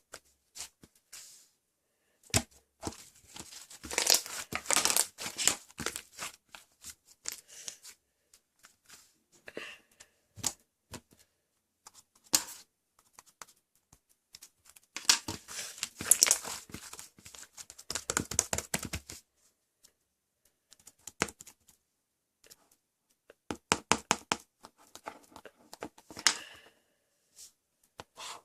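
Crinkling and tearing sounds from something being handled close by. They come in several spells of dense crackling, the longest around the middle, with quiet gaps between.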